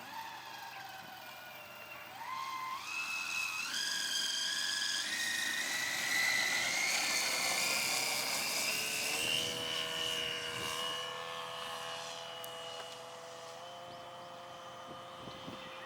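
Radio-controlled aerobatic model airplane's motor and propeller whine. It climbs in pitch in steps over the first few seconds, is loudest near the middle, then drops to a lower, steady tone about nine seconds in.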